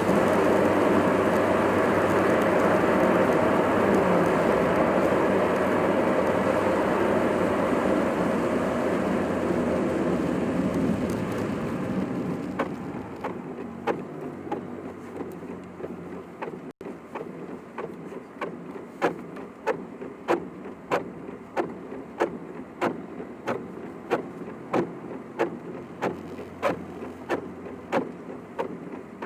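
Car cabin road noise with rain while driving, dying away as the car slows to a stop about twelve seconds in. Then a turn-signal relay clicks steadily, quickened by double-speed playback.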